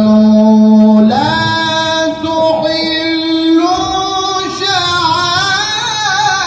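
A Quran reciter's voice drawing out a long melismatic passage: a low note held for about a second, then a step up to a higher sustained note and ornamented turns with vibrato toward the end.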